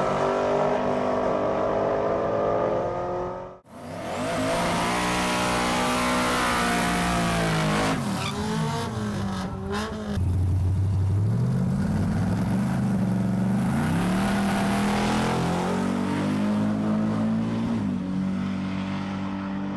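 Drag-racing car engines running and revving, their pitch climbing and falling several times. The sound cuts off abruptly about four seconds in and comes straight back.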